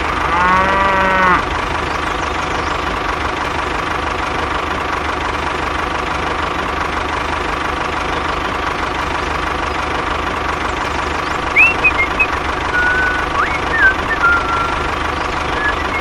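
A cow moos once, for about a second, over a tractor engine running steadily. Near the end a few short, high chirps sound.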